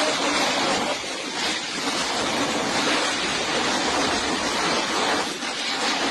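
Steady, loud rush of a heavy rainstorm with strong wind, an even hiss with no single events standing out.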